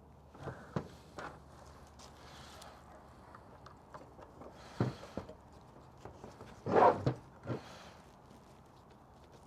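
Scattered clicks and knocks of hand tools and plastic and metal parts being handled while fitting a radiator fan to a motorcycle, with a louder brief clatter about seven seconds in.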